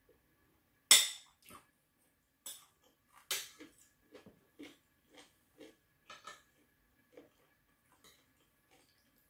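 A metal spoon clinking and scraping against a plate, loudest in a sharp clink about a second in, with a few lighter clinks soon after. Between them come soft, regular chewing sounds.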